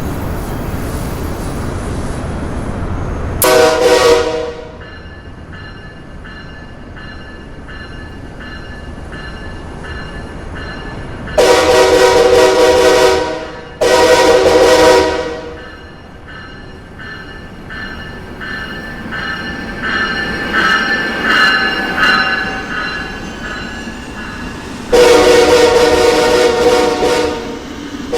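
Amtrak Northeast Regional train sounding its multi-tone horn: a short blast about four seconds in, two long blasts a little before halfway, and another long blast near the end. Between blasts, the train's running noise and a pulsing clatter as it passes.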